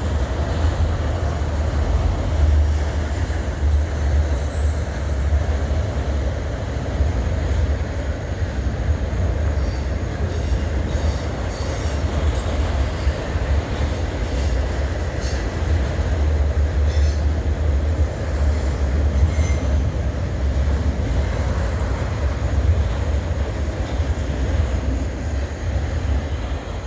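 Freight train cars rolling past close by: a steady, heavy low rumble of steel wheels on rail, with faint wheel squeals and clanks now and then. It eases a little near the end as the last cars go by.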